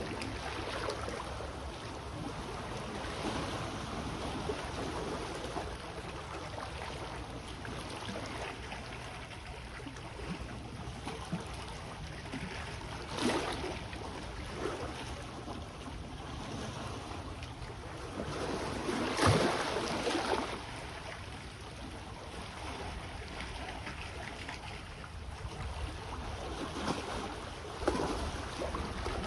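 Sea waves washing against the shore in a steady wash, with louder surges about 13 seconds in, around 19 to 20 seconds (the loudest), and near the end.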